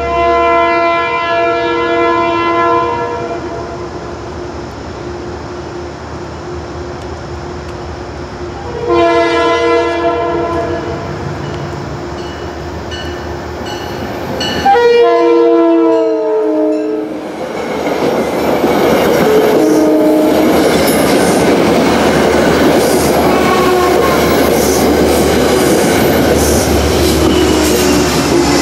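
Metro-North commuter train sounding its horn for a grade crossing: a long blast, a short blast, then a long blast that drops in pitch as it nears the crossing. The train then rolls through with a loud steady rumble and wheel clatter over the rails.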